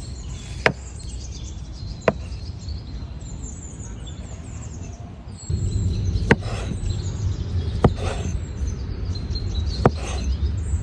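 Small birds chirping over a low, steady outdoor rumble that grows louder about halfway through, with a few sharp clicks.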